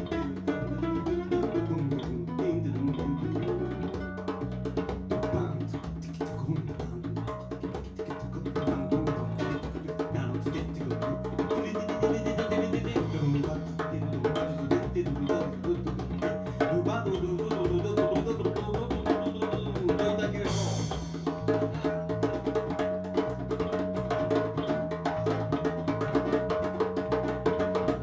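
A small live acoustic band playing a slow instrumental passage: bass, guitar and hand percussion keeping a steady beat.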